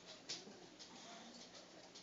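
Near silence, with one sharp click about a third of a second in and a few faint ticks after it.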